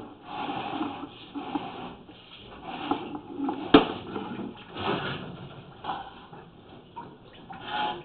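Water running and splashing in uneven surges, with one sharp knock a little under four seconds in.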